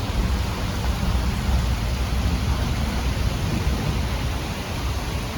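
Thunderstorm: steady rain hiss under a heavy, loud low rumble that eases off just after the end.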